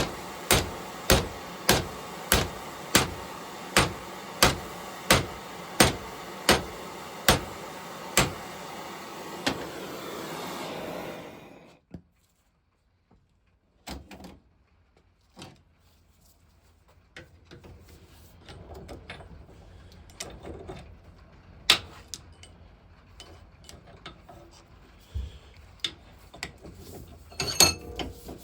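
Hammer blows on torch-heated steel bar, bending a tank bracket. There are about a dozen evenly paced strikes, roughly one and a half a second, over the steady roar of a gas torch. The torch cuts off about eleven seconds in, and scattered knocks and clanks of metal being handled follow.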